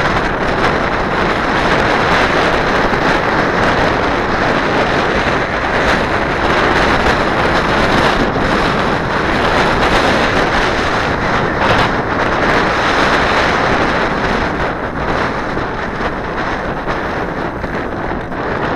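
Strong wind buffeting the microphone: a loud, steady rushing noise with no clear tones in it.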